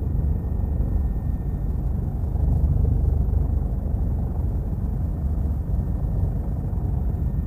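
Helicopter cabin noise in flight: a steady, loud low rumble from the rotor and engine, with a faint steady whine above it.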